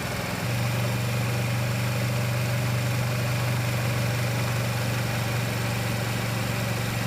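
Kawasaki Versys motorcycle engine running steadily at a low, even pitch, a little louder from about half a second in.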